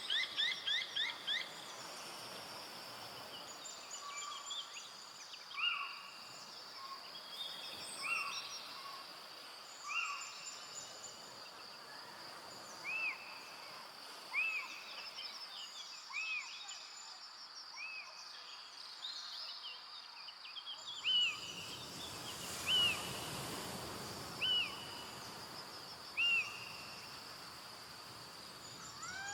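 Forest birds calling: a quick trill at the start, then scattered short calls and a repeated arched call about every two seconds in the second half. A steady high whine lies underneath, and a soft rushing swell rises and fades about two-thirds of the way through.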